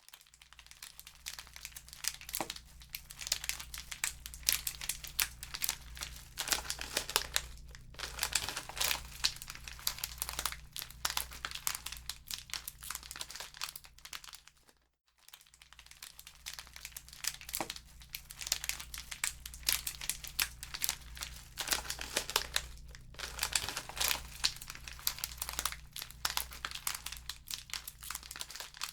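Wood fire crackling in a fireplace: dense, irregular snaps and pops over a steady low hum, dipping away briefly about halfway before building again.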